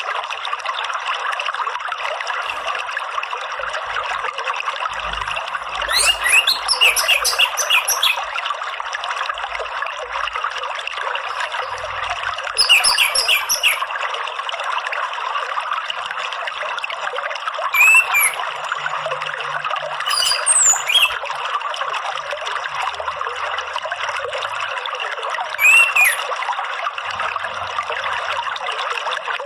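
Steady trickle of running water throughout, with five short bursts of orange-headed thrush (anis merah) song: quick whistled phrases spread across the stretch.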